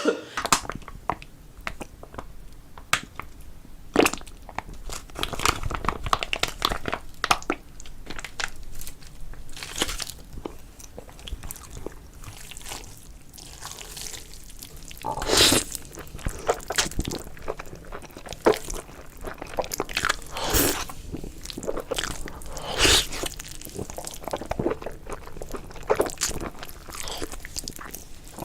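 Close-miked eating sounds: a person chewing and biting into spicy fire noodles, with irregular wet mouth clicks and smacks and a few louder bites.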